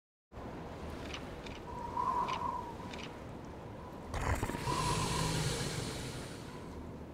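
Steady wind-like hiss of a cartoon polar ambience, with two short soft tones about two and five seconds in and a whoosh about four seconds in.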